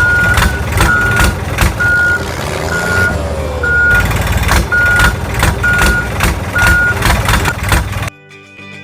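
Truck reversing alarm beeping evenly, about one beep a second, over a low rumble and clatter. The beeping stops and the sound cuts away near the end.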